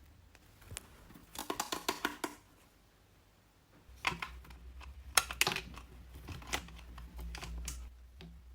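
Hands handling toy packaging: a quick run of small clicks about a second and a half in, then scattered clicks, taps and rustles, the sharpest a little after five seconds.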